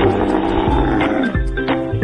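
A camel calling, over background music.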